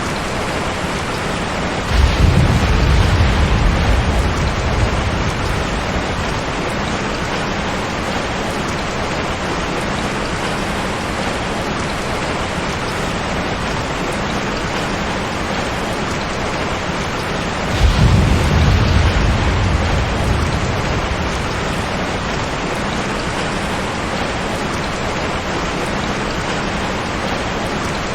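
Steady heavy rain falling, with two rolls of thunder, one about two seconds in and one past the middle, each a sudden low rumble that fades over a few seconds.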